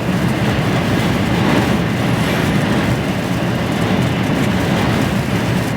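Steady engine and road noise inside the cab of an HGV truck under way on the motorway, a continuous low rumble with a hiss on top.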